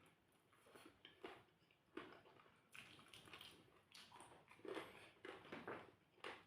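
Faint chewing and mouth sounds of someone eating rice with chicken curry: soft, irregular wet smacks and clicks.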